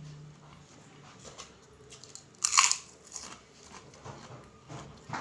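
Close-up chewing of kupat tahu topped with kerupuk crackers, with small wet clicks and one loud crunch about two and a half seconds in.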